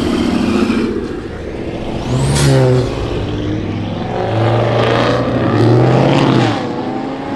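Car engines running and revving, the pitch rising and falling several times, loudest about four to six and a half seconds in.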